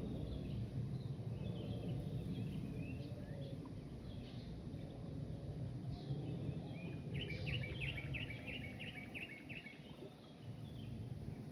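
Small birds chirping in short scattered calls, with a quick run of rapid chirps about seven seconds in, over a steady low outdoor rumble.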